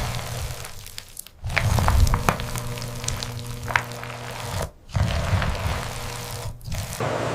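Food-factory machinery running: a steady low hum with scattered clicks and rattles, in short stretches broken by abrupt cuts about a second and a half in, and again near the five- and six-and-a-half-second marks.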